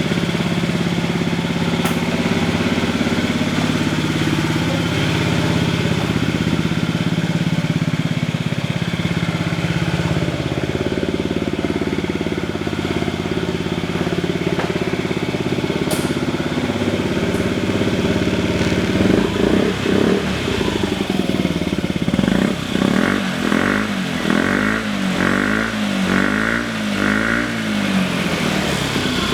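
Honda Zoomer AF58 fuel-injected 50cc four-stroke single-cylinder scooter engine running through an aftermarket custom muffler. It idles steadily for the first two-thirds, then is revved, with a run of quick throttle blips near the end.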